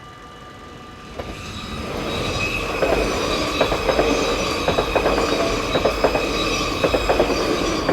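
A train passing over a railway level crossing: the rumble builds from about a second in, with wheels clacking in quick groups over rail joints and a high metallic wheel whine.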